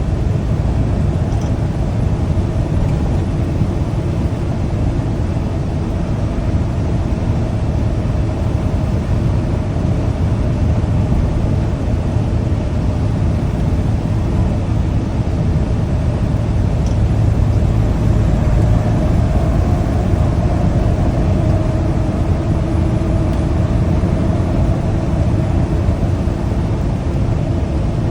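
Tractor-trailer on the move: a steady low engine drone and road noise heard from the cab, swelling a little about two-thirds of the way through.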